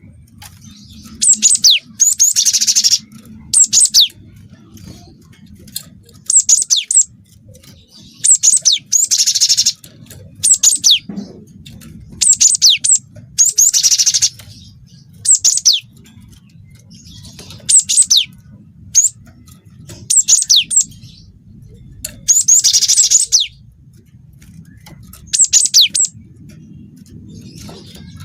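Cinereous tit (gelatik batu) singing loud short phrases every second or two, fast downward-sweeping whistles and buzzy trills learned from canary song.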